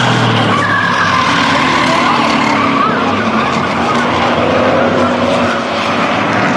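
Several racing trucks' engines running hard together on a short oval, their pitches rising and falling against one another as the pack laps.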